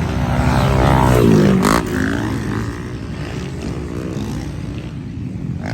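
Motocross dirt bike engines racing on the track. One bike passes close about a second in: its engine note sweeps in pitch and is loudest then, and it drops away just before two seconds.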